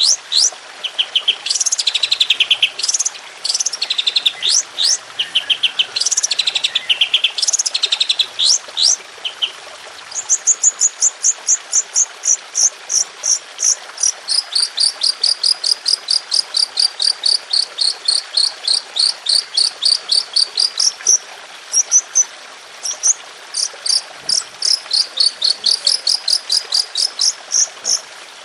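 Songbird song: high, buzzy trills for the first few seconds, then from about ten seconds in a long run of rapid, evenly repeated high notes, about four a second, the rapid-fire 'tembakan' phrasing prized in masteran training tracks.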